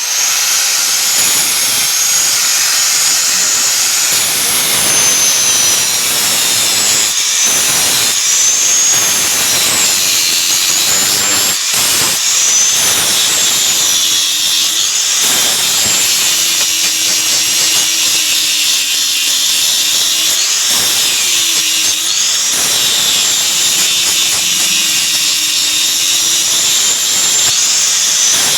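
Electric grinder running continuously and grinding steel, its whine wavering up and down as the work is pressed against it.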